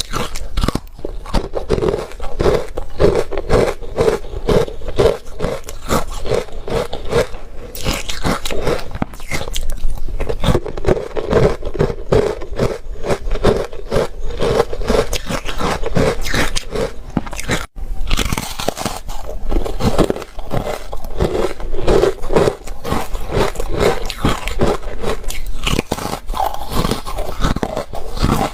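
Ice being bitten and chewed close to the microphone: dense, rapid crunching with a brief dropout about two-thirds of the way through.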